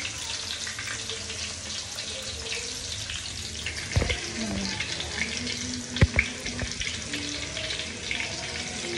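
Breaded pork cutlets deep-frying in hot oil, a steady sizzle with fine crackling. A few low knocks come about four and six seconds in.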